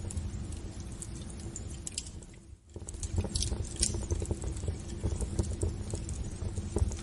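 Wood fire burning in a fireplace: a steady low rumble with irregular crackles and pops. The sound fades out briefly about two and a half seconds in and comes straight back.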